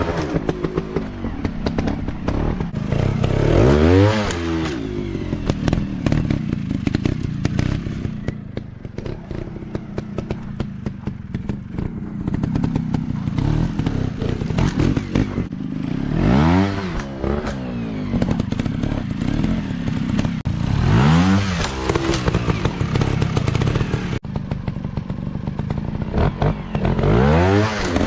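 Dirt-bike engines running at low revs, with four sharp revs that climb and drop back in pitch.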